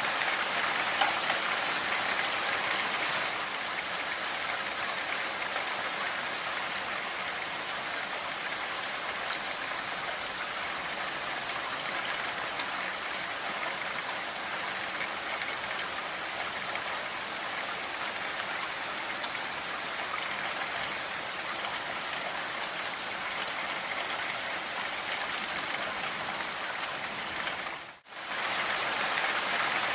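Steady rain falling, an even hiss of many drops. It cuts out for a split second near the end, then resumes.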